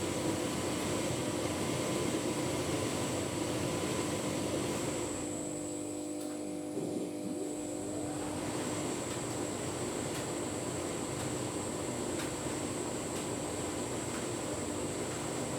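Tumble dryer running a full load of bedding on a cottons programme, a steady hum with drum and fan noise. About five seconds in the noise drops for a few seconds, then comes back with a rising whine as the motor picks back up.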